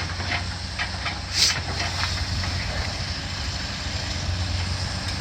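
Diesel engine of heavy demolition machinery running steadily, with a short hiss about a second and a half in and a few faint clicks.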